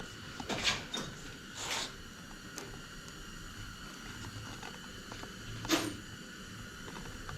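Hand tools being handled in a workshop: a few scattered clicks and scrapes, the loudest near the start and another about six seconds in, over a low steady hum.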